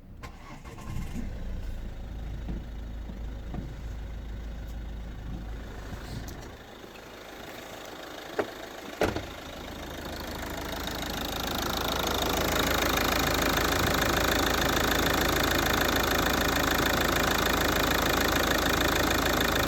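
Ford 2.0 TDCi G6DG four-cylinder diesel engine: two sharp knocks about eight and nine seconds in, then the engine sound builds over a few seconds and settles into a loud, steady idle.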